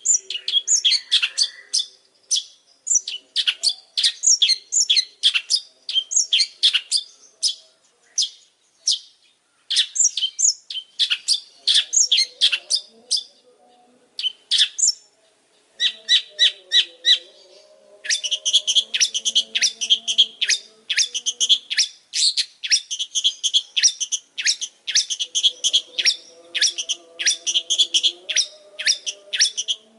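Long-tailed shrike (pentet) singing a long, fast song of rapid short high notes in quick runs, breaking off briefly twice and densest in the second half.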